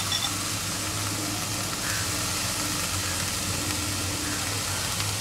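Soaked dried shrimp (karandi) sizzling steadily in hot oil and spice masala in a kadai, just after being tipped in, over a low steady hum.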